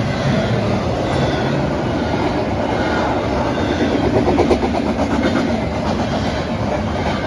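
Freight train cars rolling past close by, wheels clicking steadily over rail joints, with a rhythmic clatter strongest about four seconds in.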